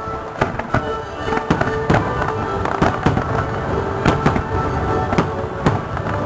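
Aerial fireworks shells bursting in quick succession, sharp bangs about two a second, over music playing for a pyromusical display.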